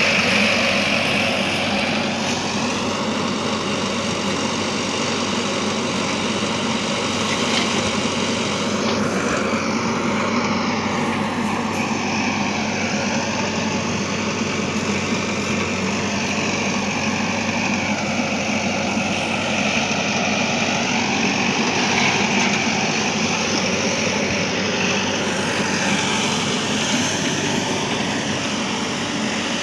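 Heavy diesel engine running steadily under a changing load, its higher whine sweeping down and back up every few seconds.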